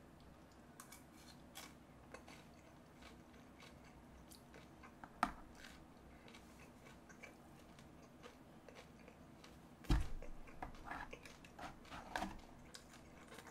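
Close-up chewing of a mouthful of guobaorou, crispy battered fried pork, with soft crunches and small wet mouth clicks. A sharp click about five seconds in and a dull thump about ten seconds in.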